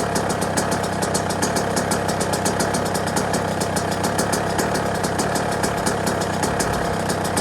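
Yamaha YZ125's single-cylinder two-stroke engine idling steadily, a fast, even popping beat that holds the same pitch with no revving.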